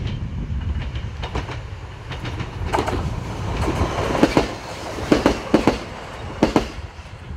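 Yoro Railway electric train passing close by: a low rumble with a run of sharp clacks as its wheels cross the rail joints, loudest in the middle of the pass.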